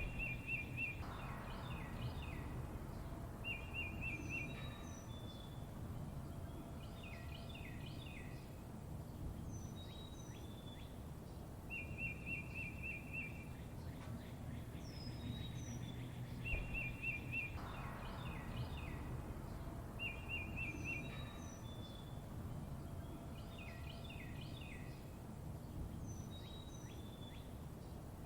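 Songbirds chirping, with short high chirps and fast trills of rapidly repeated notes, over a steady low background hiss. The same sequence of calls recurs about every sixteen seconds.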